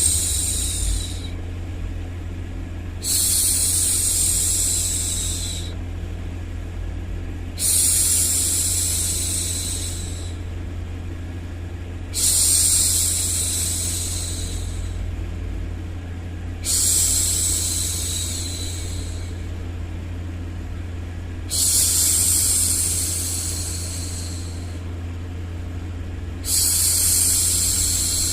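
A woman's voice hushing 'shhh' over and over, each shush lasting two to three seconds and coming about every four and a half seconds. A steady low rumble runs underneath.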